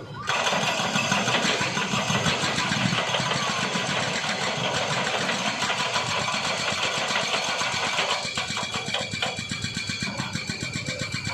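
A small engine running steadily, with a dense noise over its fine rapid firing pulses, easing slightly about eight seconds in.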